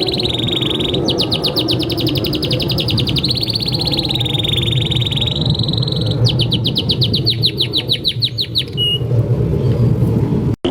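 Domestic canary singing a long song of held rolling trills and fast runs of repeated notes, over a steady low background noise. The song breaks off about nine seconds in.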